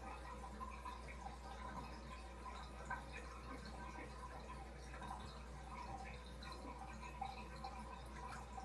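Aquarium water trickling and dripping in faint, irregular plinks over a steady low hum, typical of a filter's water return and its pump.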